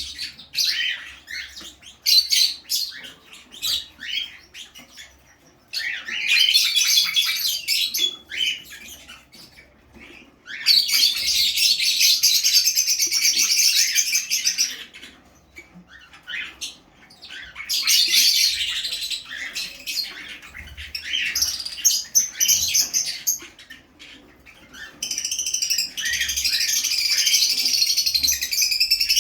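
Fischer's lovebirds chattering in dense, high-pitched chirps, coming in bouts of a few seconds with quieter gaps between, the longest near the end.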